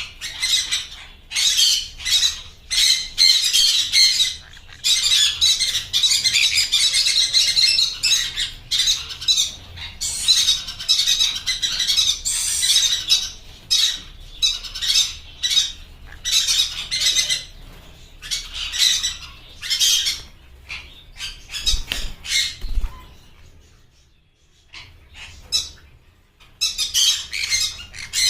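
Blue yellow-sided conures (a colour mutation of the green-cheeked conure) squawking in harsh, high, rapidly repeated calls, with brief lulls about halfway through and again near the end.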